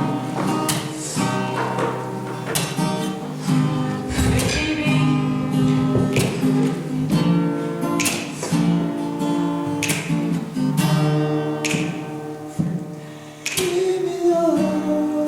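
Acoustic guitar strumming chords as the intro to a worship song, with a voice starting to sing near the end.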